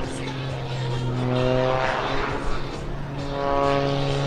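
Aerobatic MXS plane's 540-cubic-inch Sky Dynamics piston engine and propeller droning overhead during the Frisbee manoeuvre. The engine note fades in the middle and returns slightly higher in pitch about three seconds in.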